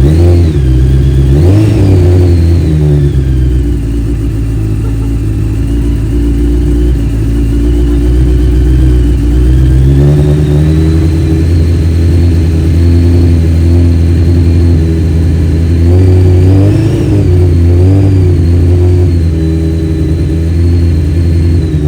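1997 Honda CBR900RR Fireblade's carburettored inline-four engine running loud and steady, newly started after three years standing. Its pitch rises briefly with throttle blips about a second in, again around ten seconds, and a few times between sixteen and nineteen seconds.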